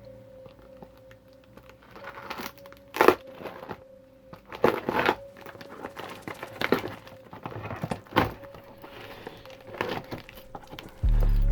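Close handling noises: crinkling and crackling in several short, sharp bursts over a faint steady hum. Loud music with a heavy bass starts near the end.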